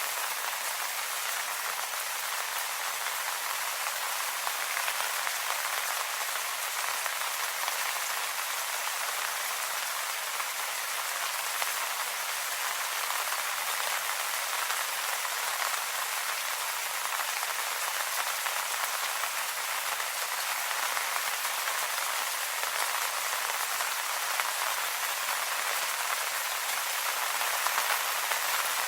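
Steady rain pattering on leaves, an even hiss of many small drops with no pauses.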